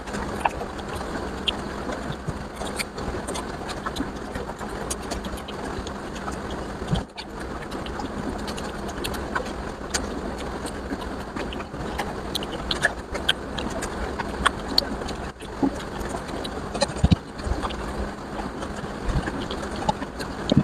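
Close-miked eating sounds: wet chewing and mouth noises of curry and rice being eaten, with many small clicks and smacks throughout.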